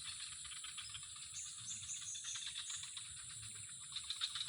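A steady high insect drone with fast runs of ratchet-like clicking, about ten clicks a second, in the first second and again near the end. A few short falling bird chirps come in the middle.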